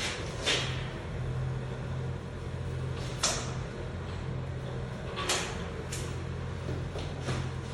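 A handful of sharp knocks and clacks, about five spread irregularly over several seconds, over a steady low hum.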